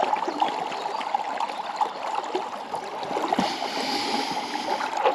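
Shallow river water running and babbling steadily over stones, with a soft higher hiss joining about three and a half seconds in.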